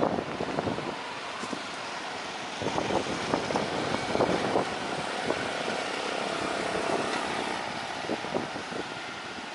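A road vehicle passing, its sound swelling for several seconds and then easing off, with gusts of wind buffeting the microphone.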